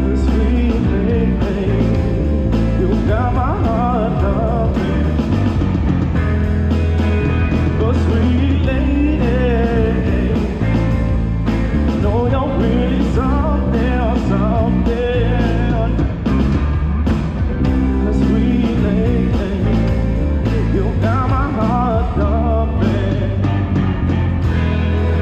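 Live rock band playing: electric guitar, bass guitar and drums, with a lead line that bends and wavers in pitch over a steady, heavy bass.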